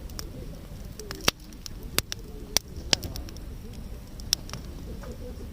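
Wood campfire crackling, with sharp pops from the burning wood at irregular moments, about five of them, over a low steady rustle.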